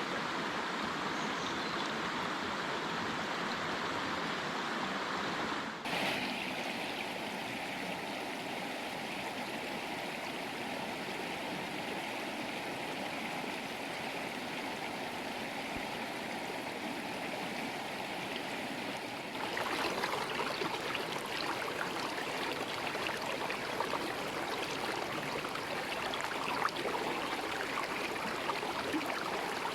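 Steady rushing of flowing river water, its character changing abruptly about six seconds in and again about twenty seconds in.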